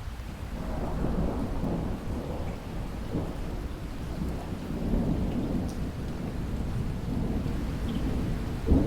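Thunder rolling over steady heavy rain: a long low rumble builds about half a second in and rolls on, with a sharper crack near the end.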